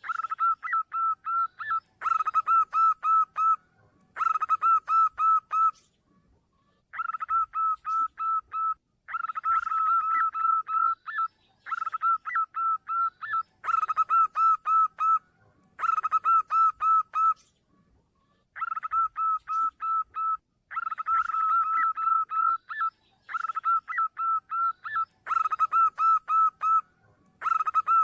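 Zebra dove (perkutut) cooing in repeated phrases, each a quick run of high notes, about every two seconds: the call played to lure zebra doves.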